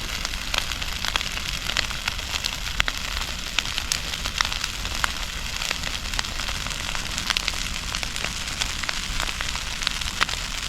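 Large brush bonfire burning: a steady hiss of flames with many sharp, irregular crackles and pops from the burning branches.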